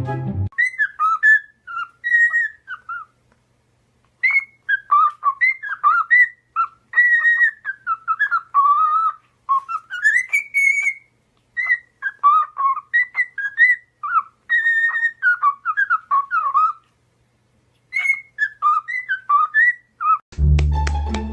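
Pet parrot whistling a long run of short sliding whistle notes in phrases, pausing briefly twice.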